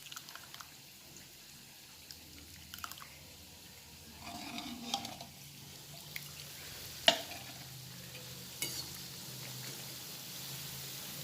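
Batti dough balls frying in hot oil with a faint, steady sizzle that grows a little stronger in the second half. A utensil clinks and scrapes against the pan a few times as they are stirred, the sharpest clink about seven seconds in.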